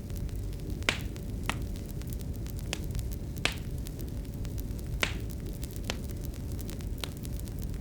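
Fireplace fire burning: a low steady rumble with sharp irregular crackles and pops about every second, and a faint steady hum underneath.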